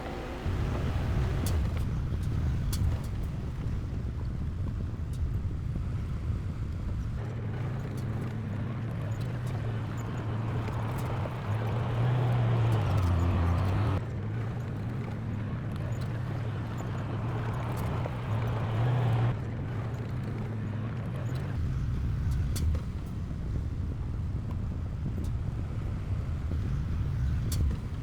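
Diesel engine of heavy earthmoving equipment running under load, a steady low drone that swells louder twice for a second or two, with occasional sharp clicks.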